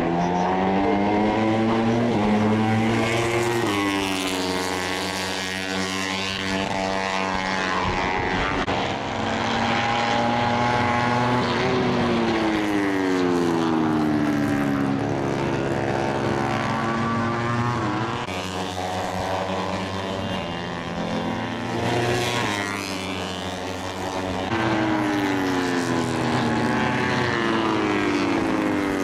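Moto3 racing motorcycles with 250 cc single-cylinder four-stroke engines passing one after another at high revs. Each engine note climbs through the gears, then drops in pitch as the bike goes by, and several bikes overlap.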